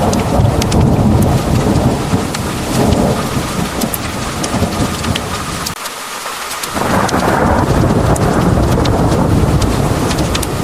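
Heavy rain pouring with rolling thunder rumbling underneath, and sharp drips and spatters over the top. A little past halfway the rumble briefly drops away, then rolls back in.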